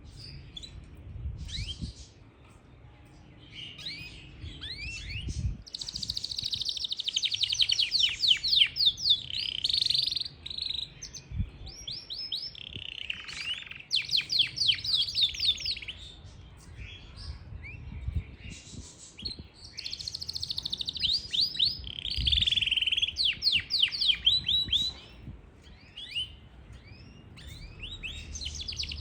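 Yorkshire canary singing in long phrases of fast, repeated downward-sweeping chirps and trills, with short pauses between phrases.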